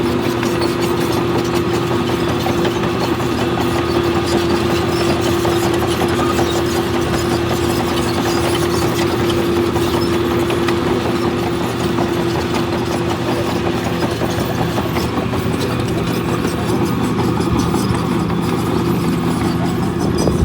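Diesel engine of a heavy earthmoving machine running steadily, with a constant engine drone.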